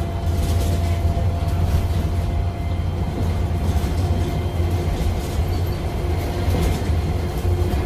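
A vehicle running with a steady low rumble and a faint, steady whine above it.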